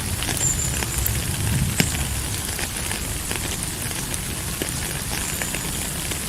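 Steady rain falling: an even hiss full of scattered sharp drop ticks, with a low rumble underneath. One louder tick comes about two seconds in.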